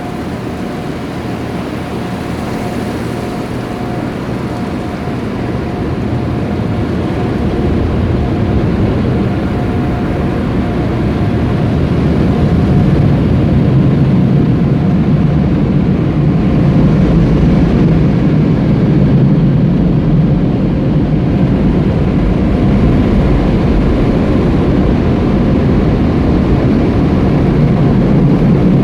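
Automatic car wash machinery running: a loud, steady rushing noise with a low rumble that grows louder about halfway through, then holds.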